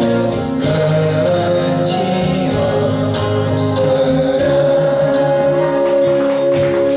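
Live folk music: singing with acoustic guitar accompaniment, with a long note held through the last few seconds as the song closes.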